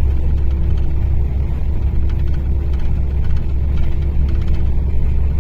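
Mercedes-Benz O-500RSD coach's diesel engine running steadily: a constant low rumble with a steady hum above it and no change in revs.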